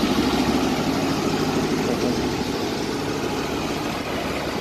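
Vehicle engine running with road noise, a steady low hum under a dense rush, slowly getting quieter toward the end.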